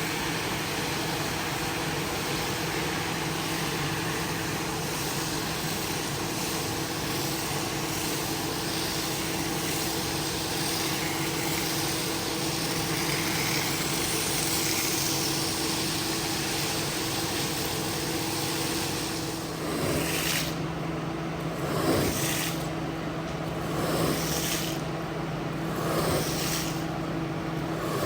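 A motor-driven carpet-cleaning machine running with a steady hum and hiss. About two-thirds of the way through, its sound starts to rise and fall about every two seconds.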